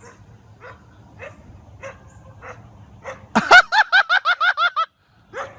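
A dog yapping in a quick run of about eight high barks, lasting about a second and a half, that cuts off suddenly.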